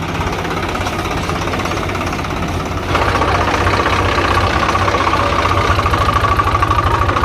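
Heavy diesel engine running steadily with an even low throb. About three seconds in it gets louder and a steady high whine joins it.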